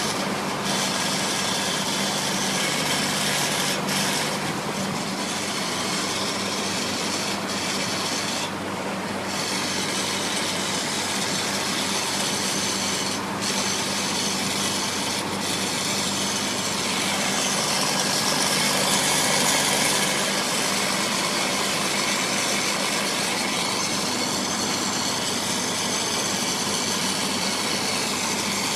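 Steady running noise of a truck on the move: a constant low hum under a broad rushing noise that holds at the same level throughout.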